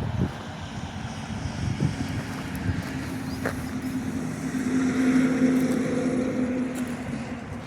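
BAE Hawk jet trainer flying overhead as it circles: a steady engine noise with a held low hum that builds to a peak about five seconds in, then starts to fade.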